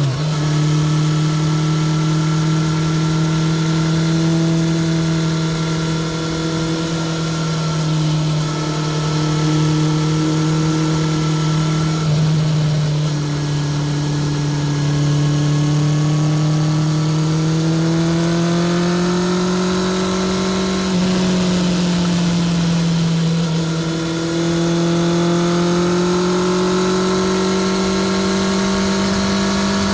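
Honda CBR650R's inline-four engine through a Spark full titanium exhaust, running steadily at moderate revs while riding. The pitch drops sharply right at the start, then holds with slow rises and small dips.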